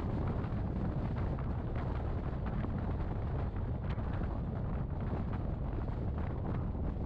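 Wind buffeting the microphone out of the window of a moving Rhaetian Railway electric train, over the steady low rumble of the train running on the track, with faint scattered ticks.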